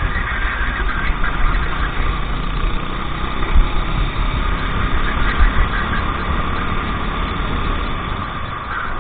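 Racing kart engine running under a loud, steady low rumble, with two sharp thumps about three and a half and five and a half seconds in.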